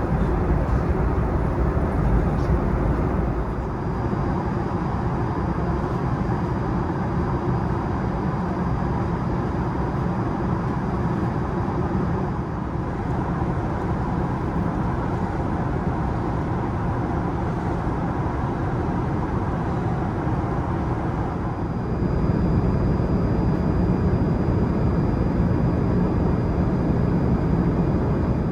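Steady roar of air and engine noise inside an Airbus A380's passenger cabin. It gets a step louder about three-quarters of the way through, when a faint thin high whine joins it.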